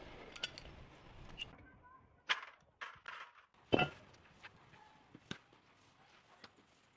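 A few sharp knocks and clicks of metal tools and parts being handled, the loudest about two and four seconds in, with lighter clicks after.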